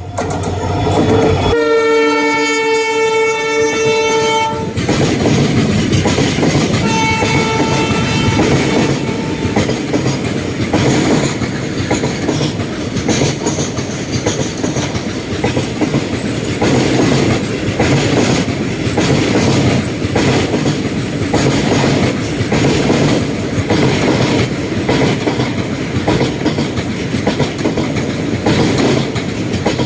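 A train sounds its horn twice: a long blast of about three seconds, then a shorter, fainter one. After that come the steady rumble and rhythmic clickety-clack of the passing carriages' wheels on the rail joints.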